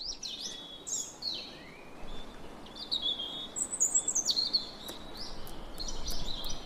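Small birds chirping, a string of short high calls, several of them sliding down in pitch and overlapping one another.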